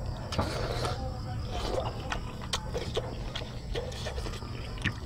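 Close-up chewing and lip-smacking while eating squid adobo and rice by hand: a run of short, wet mouth clicks and smacks over a steady low background rumble.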